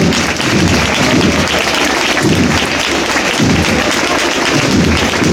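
Crowd applauding: dense, loud, continuous clapping.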